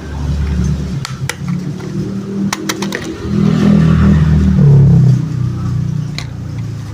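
Plastic toy car, a Lightning McQueen police car, rolling and being pushed across a surface: a low rumble of its wheels that swells for a couple of seconds in the middle, with sharp plastic clicks here and there.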